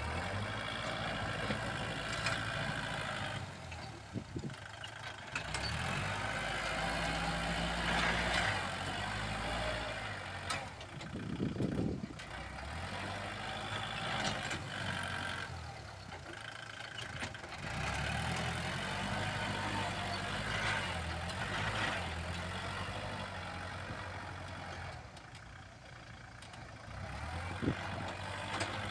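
Kubota L47 tractor's diesel engine working under varying load, its pitch rising and falling in repeated cycles every few seconds, with a few clanks in between.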